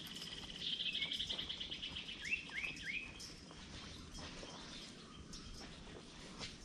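Wild birds calling: a rapid high trill about half a second in, followed by three short quick chirps in a row, over faint outdoor background.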